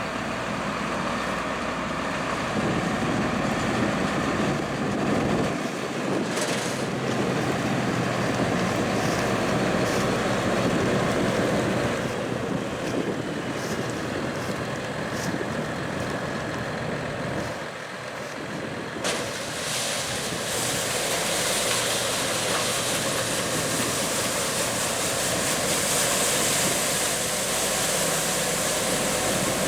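Massey Ferguson diesel harvest machinery running steadily under load in the field, with a low engine hum. About two-thirds of the way through, a brighter hiss comes in over it.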